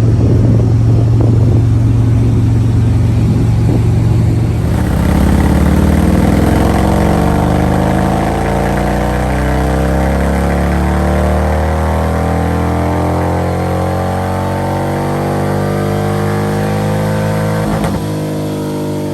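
Motorcycle engine running: a low steady rumble, then from about five seconds in its pitch climbs slowly and evenly for more than ten seconds, with a sharp click near the end.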